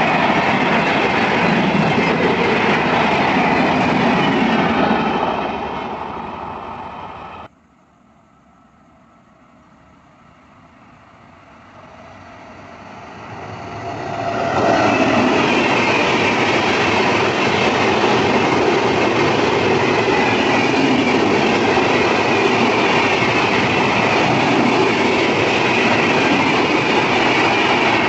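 Train running past on the rails, its noise fading away until it is cut off abruptly about seven seconds in. Then another train grows louder as it approaches and runs past loudly and steadily for the rest of the time.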